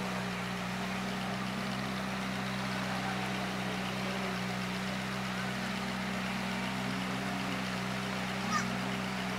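Ferrari 458 Italia's V8 engine idling steadily, with no revving. A brief short chirp sounds once near the end.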